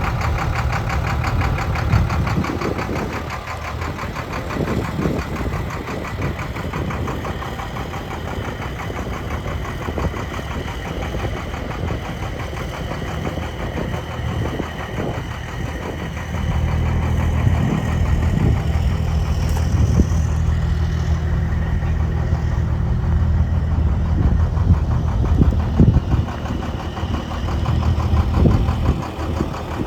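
International DT466E inline-six diesel engine of a 1997 IHC 4900 truck idling with an even, steady beat. It gets louder about halfway through and stays louder.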